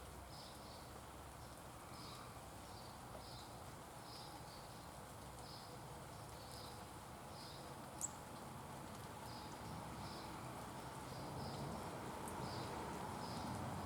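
A small bird calling with short high chirps, repeated about once a second, over steady faint outdoor background noise. A single sharp click comes about eight seconds in.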